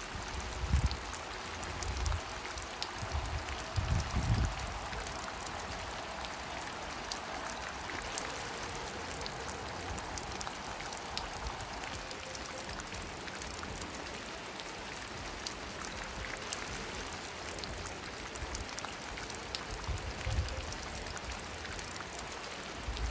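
Steady rain falling, an even hiss, with wind gusting on the microphone as low rumbles, strongest in the first few seconds and again near the end.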